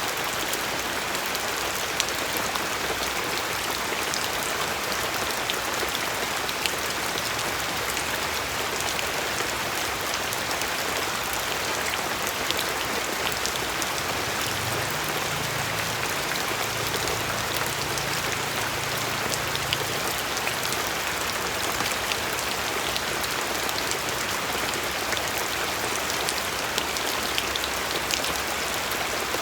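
Steady rain, with many individual drops ticking on a surface over an even hiss.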